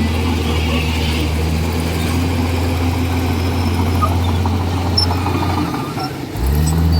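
Komatsu D41E bulldozer's diesel engine running steadily under work; near the end its note briefly sags and then picks back up with a quick rise in revs.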